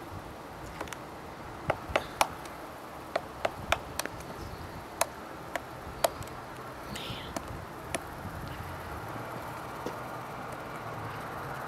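Woodpecker striking and chiselling a tree stump while digging for grubs: about a dozen sharp, irregular knocks, fewer after about eight seconds.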